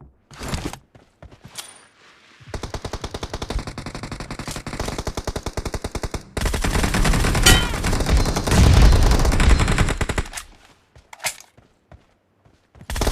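Video game automatic gunfire: a few single shots, then a long rapid burst starting about two and a half seconds in, then a louder, heavier burst of automatic fire from about six to ten seconds, and one more shot near the end.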